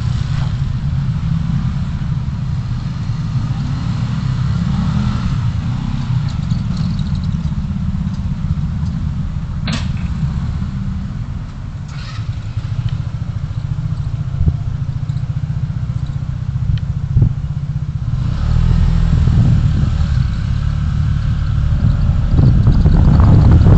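Low, steady engine and road rumble of a car driving in city traffic, growing louder over the last few seconds, with a sharp click about ten seconds in.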